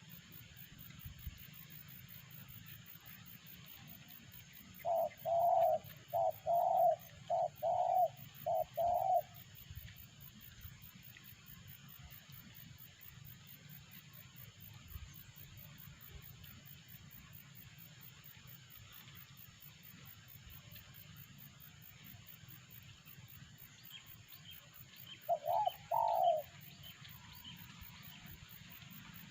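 Spotted dove cooing: a phrase of about six low coos a few seconds in, then a short two- or three-note coo near the end.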